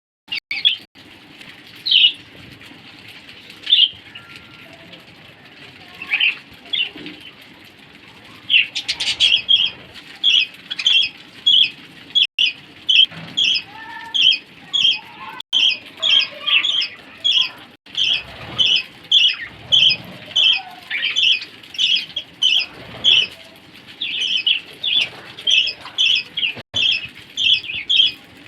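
Australian parrots chirping: short, high calls, a few scattered at first, then a steady run of about two a second from about nine seconds in.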